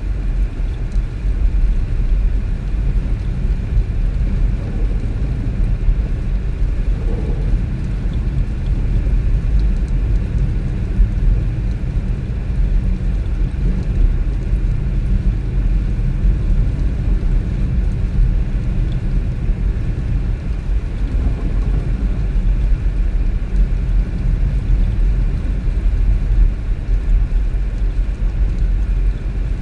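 Steady low rumble of a car on the move, its engine and tyres on the road.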